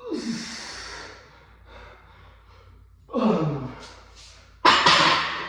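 A man breathing hard from weightlifting exertion: a loud voiced exhale that drops in pitch, a second one about three seconds in, and a sharp breathy gasp near the end.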